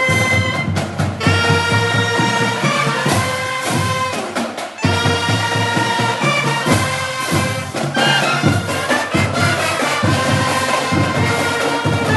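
Brass-band music: held brass chords with a steady run of sharp percussive strokes under them.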